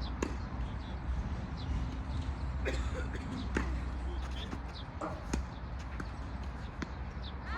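Tennis balls being struck by racquets and bouncing on the court: a handful of sharp pops spread through the seconds, over a steady low hum.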